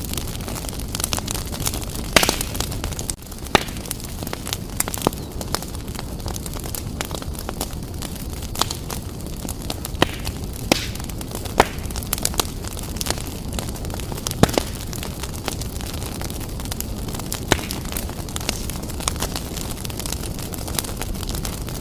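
Wood fire burning in a fireplace: a steady low rumble of flames with sharp crackles and pops at irregular intervals, a few of them louder.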